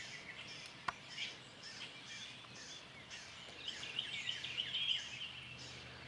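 Birds chirping and singing over quiet outdoor ambience, with a faint high pulsing sound repeating about twice a second. A single sharp click comes about a second in.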